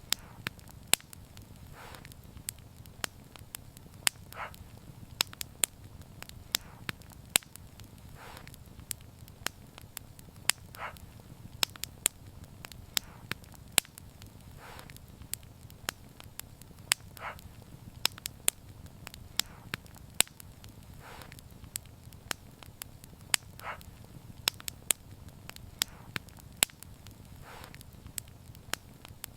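Fire crackling, with frequent sharp pops and snaps over a steady low rumble, and a soft hiss coming back about every two seconds.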